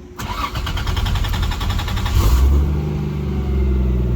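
Toyota 1JZ inline-six turbo engine in a swapped Mazda Miata starting: about two seconds of fast, even starter cranking, then it catches and settles into a steady idle through its new MagnaFlow exhaust.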